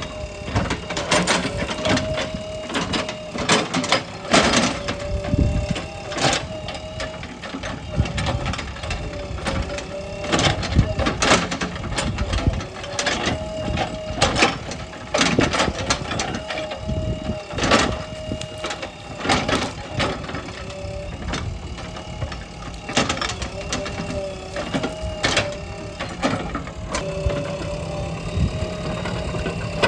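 JCB backhoe loader working: its diesel engine runs under a wavering whine while the bucket clanks and knocks again and again on stone and debris.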